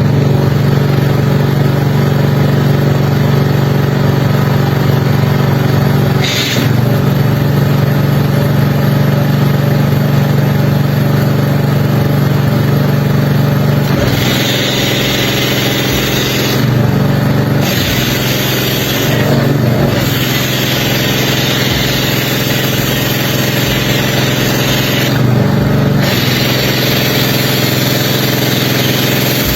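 An engine running steadily at a constant speed. About halfway through, a high hiss like spraying water joins it and breaks off briefly a few times.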